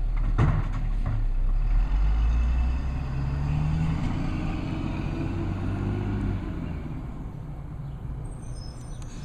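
Garbage truck's diesel engine revving up, holding, then easing off, with a sharp bang about half a second in.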